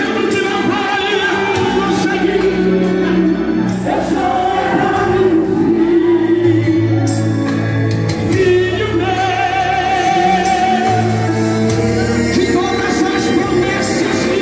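Portuguese-language gospel song: sung vocals with vibrato over a full band with a steady bass line.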